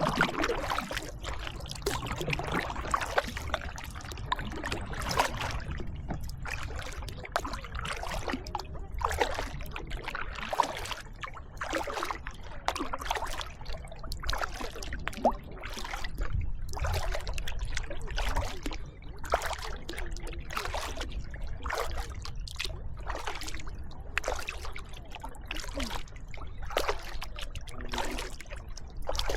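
Kayak paddle strokes: water splashing and trickling off the blades in an irregular, repeated pattern, over a steady low rumble.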